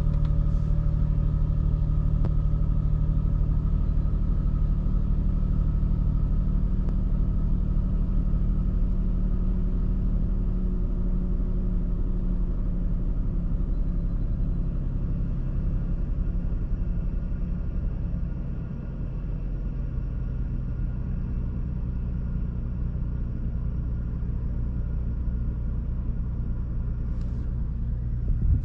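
2012 Infiniti G37S's 3.7-litre V6 idling steadily just after a cold start. About two-thirds of the way through the idle settles slightly lower and quieter. A short knock is heard near the end.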